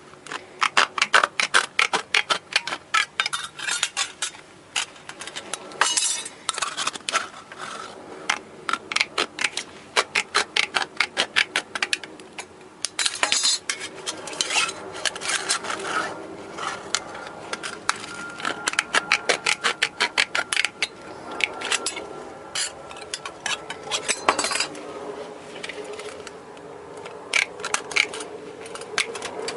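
Irregular runs of sharp metallic clinks and clatter, small metal parts knocking together, some runs fast and dense, with quieter gaps between them.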